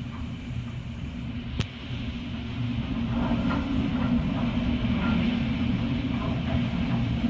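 Hurricane-force wind rumbling steadily against the house, heard from indoors behind a window. It grows louder about two seconds in, with a single sharp click shortly before.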